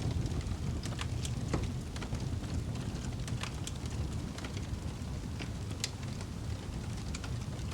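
Wood fire burning in a fireplace: a low steady rumble of flames with scattered sharp crackles and pops, the loudest pop near the end.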